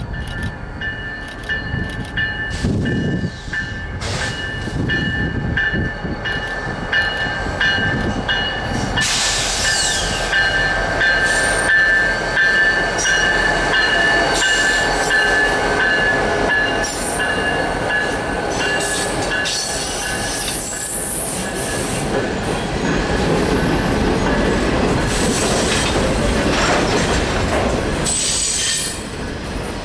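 Union Pacific train rolling past, its wheels squealing with a steady high-pitched ring and clicking over rail joints.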